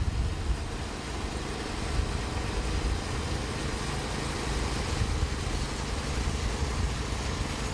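Engine of a Norwood Lumber Pro HD36 portable band sawmill running steadily.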